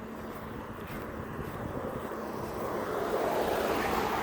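A vehicle approaching: a noisy, pitchless rush that grows louder over the last second or two.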